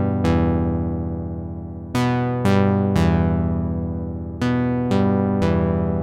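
A Sequential analog polyphonic synthesizer plays seven chords with a plucky, keys-like patch. Each chord starts bright and quickly mellows as the filter closes, then fades, and the chords come in uneven clusters about half a second to a second and a half apart.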